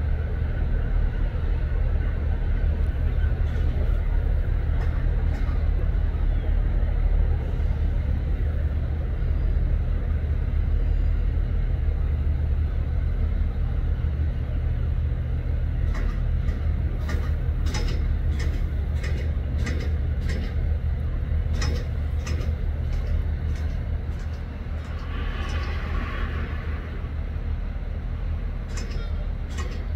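A train standing at a station platform with a steady low rumble. From about halfway, a run of sharp clanks and clicks, and a short hiss about 26 seconds in.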